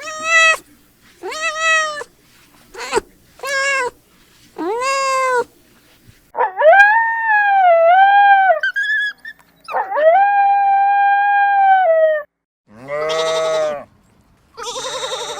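A puppy yelping and howling: a run of short whimpering yelps that rise and fall, then two long, high howls of about two seconds each, and lower wavering calls near the end.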